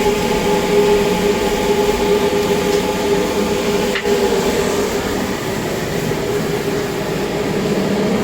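Steady drone of a running machine with a constant humming tone, and a faint click about four seconds in.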